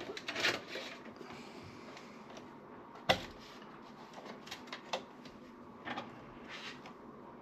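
Hands working inside a desktop computer case: scattered light clicks and rustles of cables and plastic parts, with one sharp click about three seconds in.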